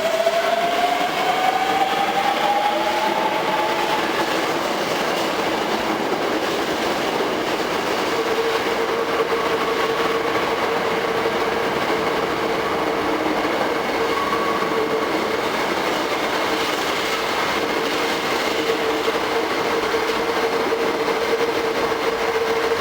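Hankyu 8000 and 7000 series electric multiple-unit train pulling away. The traction motors' whine rises in pitch over the first few seconds as it accelerates, then gives way to the steady rumble of the cars running over the rails. A steady tone holds from about a third of the way in.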